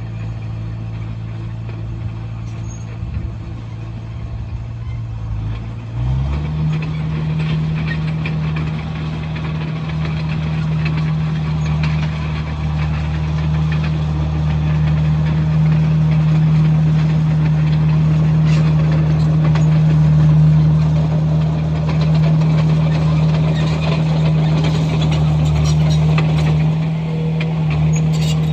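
Komatsu bulldozer's diesel engine running steadily; about six seconds in the engine speed steps up and then holds at the higher pitch.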